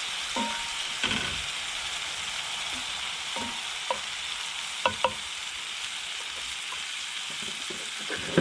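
Food sizzling steadily in a frying pan, with a few light clinks of a utensil against the pan.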